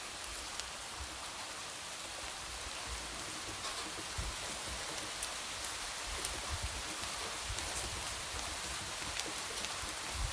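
Light rain falling steadily, a soft even hiss with scattered sharp taps of single drops.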